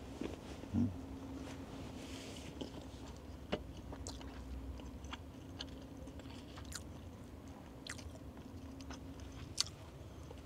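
A person chewing and biting food close to the microphone, with many small crisp clicks and a soft thump about a second in, over a faint steady hum.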